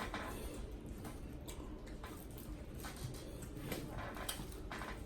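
People eating a shrimp boil: scattered small clicks and wet squishy handling sounds, with no talking.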